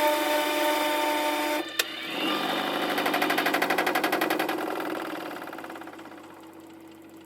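Washing machine running, sped up tenfold: a steady high motor whine cuts off about a second and a half in with a click, then a fast, even pulsing churn swells and fades away.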